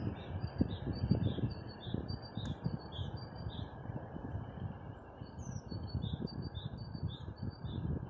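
A songbird singing a repeated two-note phrase, a higher note then a lower one, about two pairs a second, in two runs with a short pause near the middle. Under it is a gusty rushing noise.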